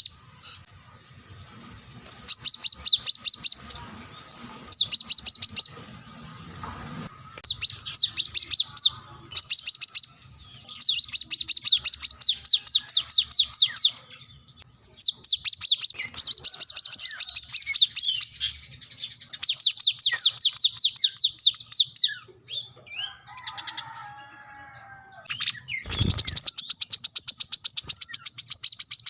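Brown-throated sunbird (kolibri kelapa) singing in bursts of fast, high chirping trills, some about a second long and some running several seconds, with softer chirps in a short lull. Near the end a low thump, then a steady unbroken trill.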